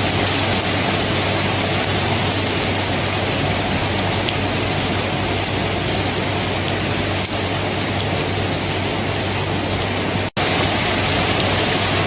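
Steady, dense rainfall. The sound cuts out for an instant near the end, like a splice in the recording, then carries on.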